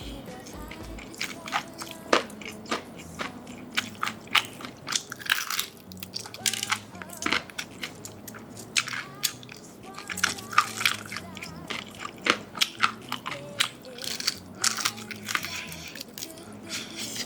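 Crunchy bites and chewing of crispy, long-fried chicken: many sharp, irregular crackles of the batter breaking.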